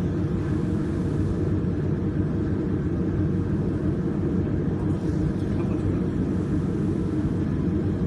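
Steady low rumble, even in level throughout, with no distinct clicks, tones or rhythm.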